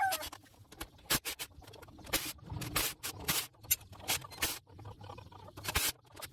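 Scattered light clicks and scrapes of metal tools and bolts being handled while the flywheel mounting bolts come out.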